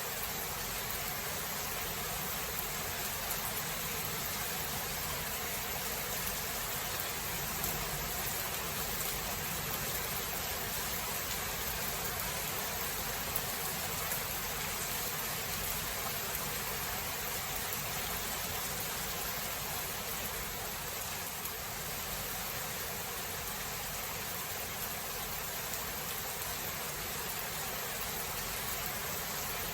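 Steady rain falling as an even hiss, with no thunderclap standing out.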